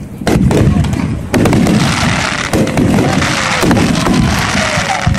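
Aerial fireworks shells bursting in quick succession, about a dozen sharp reports over a low rumble, with a dense crackling hiss between them.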